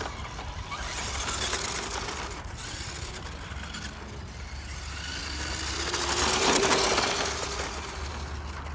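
A 1/12-scale RC pickup truck driving over gravel: a steady crunch of tyres on loose stones, with the electric motor's whine rising in pitch and growing louder about two-thirds of the way through as it speeds up.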